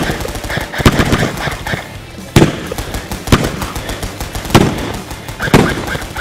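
Airsoft guns firing in rapid strings: a dense crackle of pops, with several louder, sharper cracks about a second apart, over background music.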